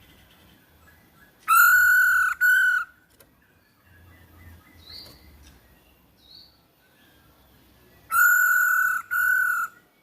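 Female Hong Kong poksay (laughingthrush) giving a loud, harsh, flat-pitched call: a long note followed by a short one, given twice several seconds apart, with faint short chirps between. It is a stimulation call meant to provoke a quiet poksay into answering.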